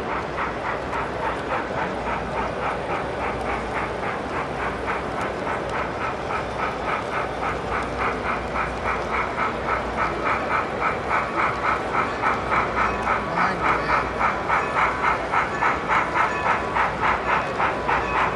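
Model train of Strasburg Rail Road steam locomotives #475 and #90 running with a steady rhythmic beat, about two to three pulses a second, growing louder from about ten seconds in as it approaches.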